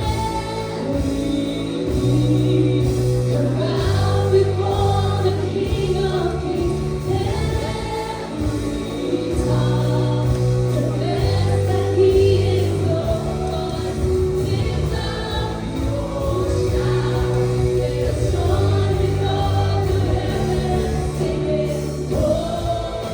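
Live gospel worship music: a group of voices singing together over a band, with held bass notes that change every second or two.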